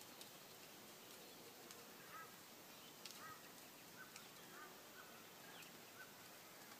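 Near silence with faint outdoor ambience: a series of short, faint bird chirps repeats from about two seconds in, with a few faint ticks.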